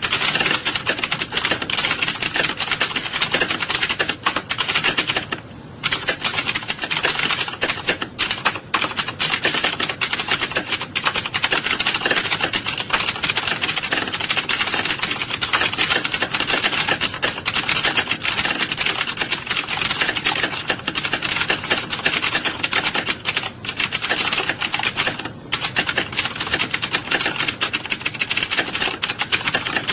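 Many keyboards typed on at once in a typing class: a dense, continuous clatter of overlapping keystrokes, with brief lulls about five and a half and twenty-five seconds in.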